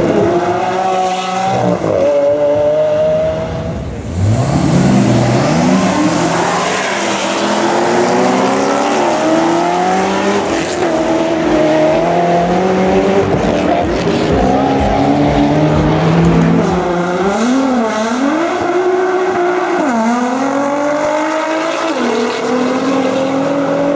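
Drag-race car engines at full throttle. About four seconds in there is a loud launch, then the pitch climbs and falls back repeatedly as the cars shift up through the gears.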